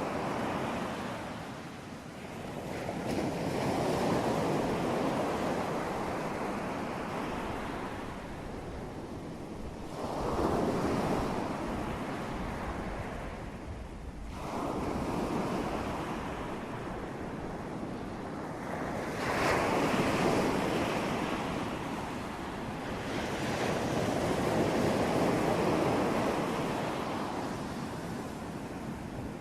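Ocean surf: waves breaking and washing in, swelling and ebbing in repeated surges every four to five seconds.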